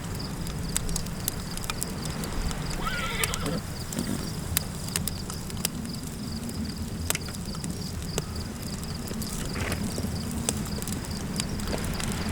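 Campfire crackling with scattered sharp pops over a low, steady wind rumble and a thin steady high tone. A brief animal call sounds about three seconds in, and a fainter one near the ten-second mark.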